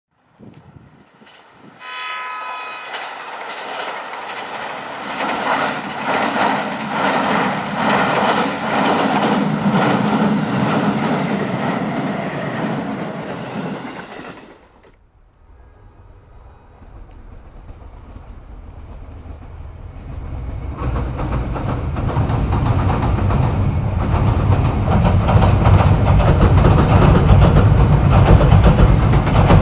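Trains crossing a railway bridge. A train horn sounds once, briefly, about two seconds in, then a train passes with a rhythmic clatter of wheels over the rail joints until it cuts off abruptly midway. After that, another train approaches with a heavy low rumble that grows steadily louder.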